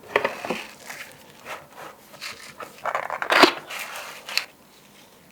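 Packaging being handled during an unboxing: irregular rustling and crinkling with small knocks, loudest about three and a half seconds in, stopping about four and a half seconds in.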